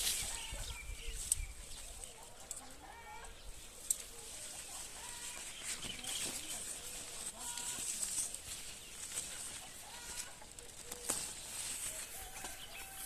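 Chickens clucking, with scattered short calls and a few sharp clicks over faint outdoor hiss.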